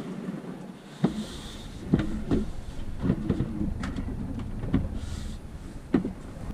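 Irregular knocks and clunks of a boat fridge freezer being handled and set into place, over a low rumble that comes in about a second in.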